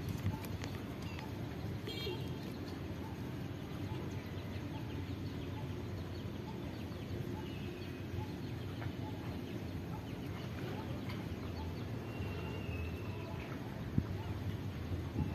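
Steady low outdoor background noise with a few faint, short bird calls: one about two seconds in and a held high note shortly before the end.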